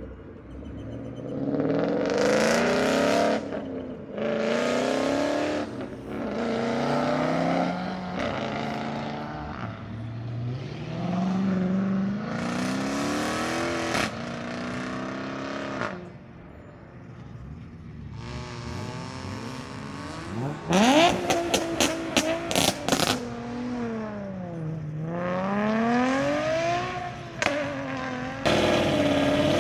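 A car engine revving hard again and again, its pitch climbing and falling, with a quick string of sharp pops or cracks about two-thirds of the way through.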